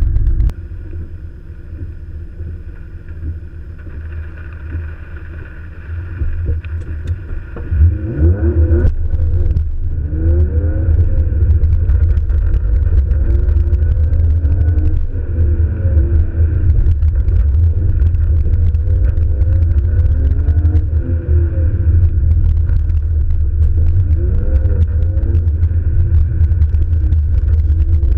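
Car engine heard from inside the car, muffled: idling low at first, then about eight seconds in it revs up hard as the car pulls away, and the engine note keeps rising and falling over and over as the car is driven hard around the course.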